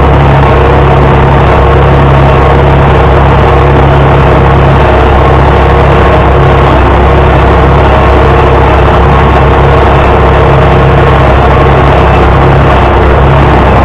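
International Harvester 560 tractor engine running steadily and loud, holding an even speed throughout.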